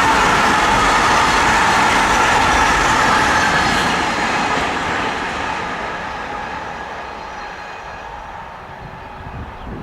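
Train passing close by, loud and steady, then fading away over the last five or six seconds as it moves off.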